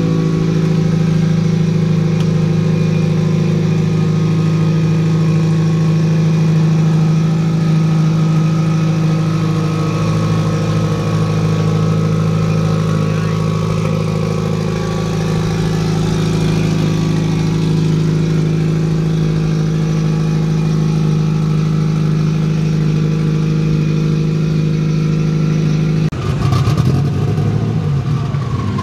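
Car engine idling steadily at an even pitch, settling slightly lower in the first second. About 26 seconds in, the sound turns rough and briefly louder.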